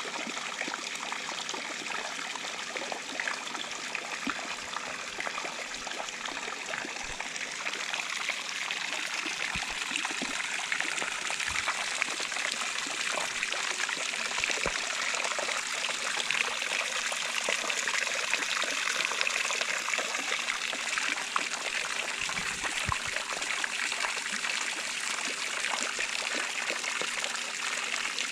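Intex 28089 pool waterfall cascade running: a steady sheet of water falling and splashing, with a faint steady hum beneath. The splashing grows louder about a third of the way in and stays so.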